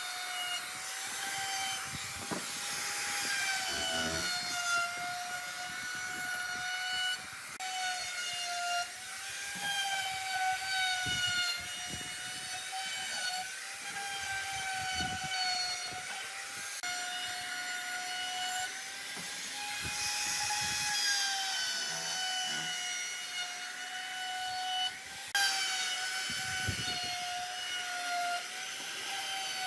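Steady high-pitched whine of an electric power tool's motor, its pitch wavering slightly, with scattered light knocks and scrapes of work on wood. The sound jumps abruptly a few times.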